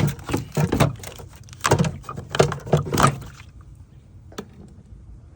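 A 3/8-inch Kobalt air tool running on compressed air in about four short bursts, trying to break loose an engine bracket mount bolt on a long extension; it stops a little past halfway.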